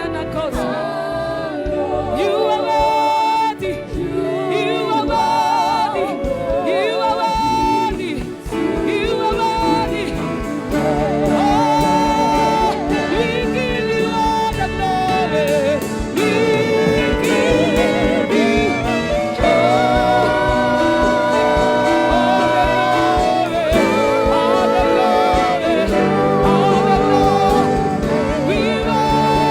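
Gospel worship music: sustained singing with strong vibrato over a steady, sustained instrumental backing.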